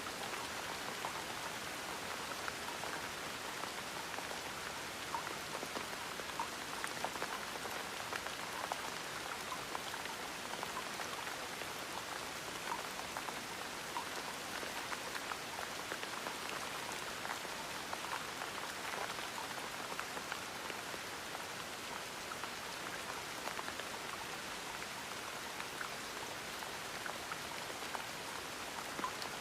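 Gentle rain falling steadily, a soft even patter dotted with many small drop ticks.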